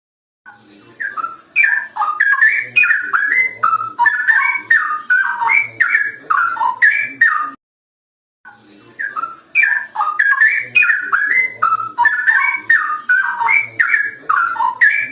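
Straw-headed bulbul (cucak rowo) singing loudly: two long bursts of rich, bubbling, fluty warbling notes separated by a brief pause just past the middle.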